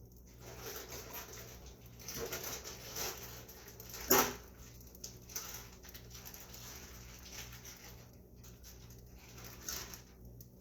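A dog making a run of short, irregular sounds, with one sharp, much louder sound about four seconds in.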